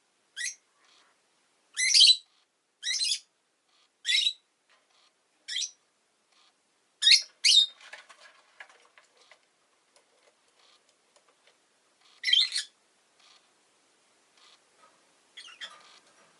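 Rosy-faced lovebird (Agapornis roseicollis) giving short, sharp, high-pitched chirps at irregular intervals, about nine in all. Softer scratchy chatter comes in between the calls, most around the middle and again near the end.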